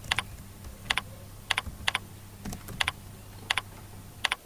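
Computer keyboard and mouse clicks, scattered and mostly in quick pairs about once a second, over a faint steady low hum.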